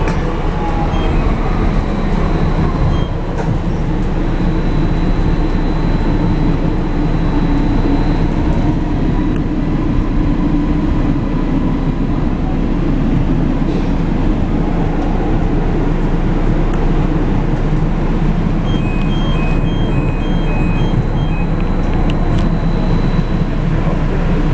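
Light-rail train running, heard from inside the passenger car: a steady rumble with a faint high whine at times.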